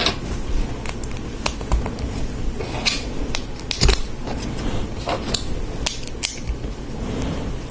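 Lego Technic plastic pieces being handled and pressed together: irregular small clicks and light rattling, with a few short rustles and a firmer knock about four seconds in.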